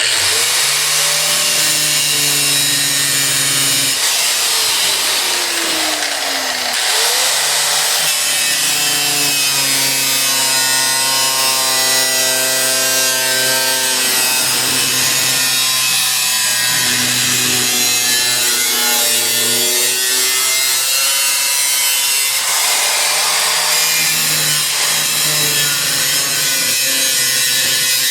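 Angle grinder with a cut-off wheel cutting the sheet-steel floor of a 1980 Jeep CJ7: a continuous harsh cutting noise over the motor's whine, which dips in pitch under load and recovers several times. It starts abruptly and runs without a break.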